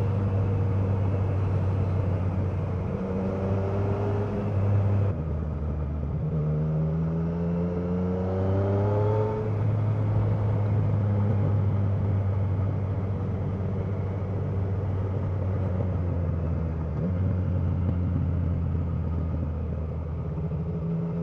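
Motorcycle engine pulling along a twisty road, its note rising as it accelerates a few times: twice in the first half and again near the end. Wind rushes steadily over the bike.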